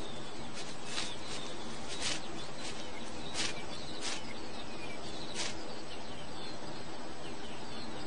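Birds chirping over a steady outdoor hiss. Short, sharp, high-pitched calls come about once a second through the first half, and fainter brief chirps follow toward the end.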